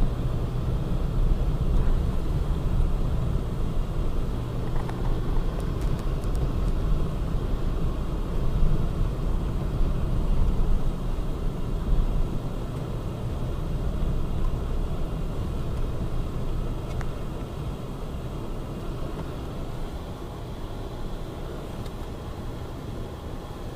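Steady low rumble of a vehicle's engine and tyres on a snow-covered road, heard from inside the cabin while driving. It eases off and grows somewhat quieter in the second half.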